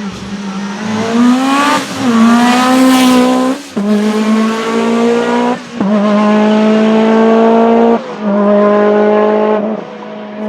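Lancia Delta S4 Group B rally car's twin-charged four-cylinder engine running hard at high revs. Its note rises and dips early on, then holds a steady pitch, cut off briefly about every two seconds.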